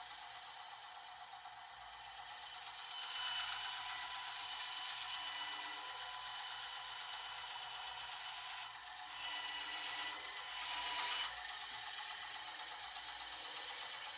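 Bandsaw running with a steady high whine while its blade cuts through a workpiece. The cutting noise grows harsher about three seconds in and again around nine to eleven seconds.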